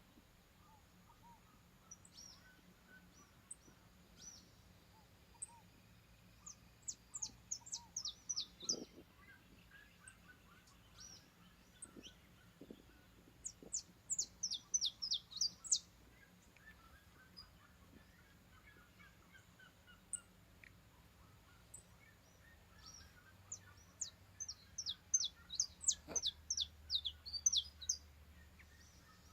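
Saffron finch (canário-da-terra) singing in three bursts of rapid, sharp, high descending notes, with other birds chirping faintly in the background.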